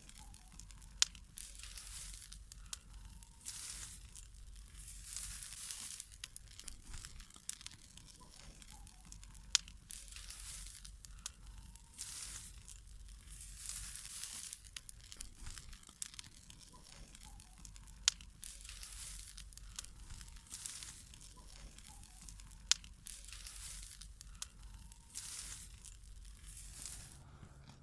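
Burning dry grass crackling, with repeated hissing, rustling rushes and scattered sharp pops.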